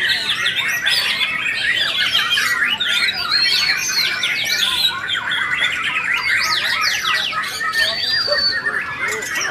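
Several white-rumped shamas (murai batu) singing at once in a contest, a dense, continuous tangle of quick overlapping whistles and trills.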